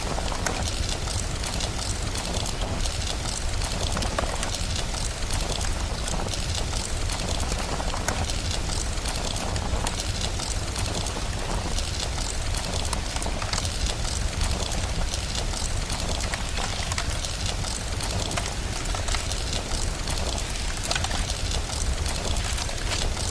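Steady rain with a low rumble underneath, and a wood fire crackling over it.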